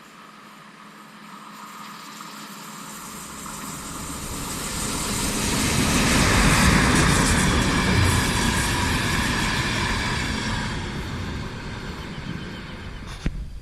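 An electric train approaching and passing at speed, its rumble and wheel noise growing louder to a peak about halfway through, then fading as it moves away. A single sharp click near the end.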